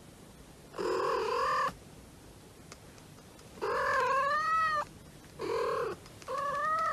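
A cat making four long, drawn-out meows, each wavering in pitch. The second is the longest, rising and falling.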